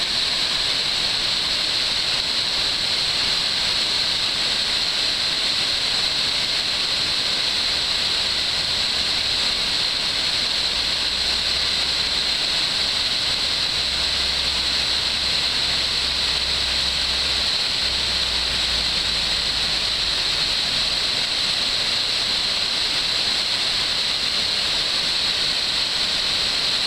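River waterfall rushing: a steady, even wash of falling-water noise, strongest in the hiss. A low rumble sits underneath for about a dozen seconds in the middle.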